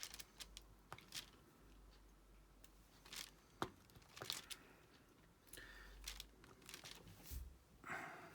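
Faint scattered clicks and brief plastic rustling from diamond painting: resin drills being picked up from the tray and pressed onto the canvas with a drill pen.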